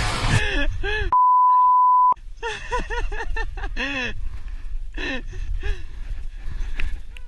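A steady single-pitch beep, like a censor bleep, lasting about a second from about a second in. Before and after it come short cries that rise and fall in pitch, like a voice or a meow.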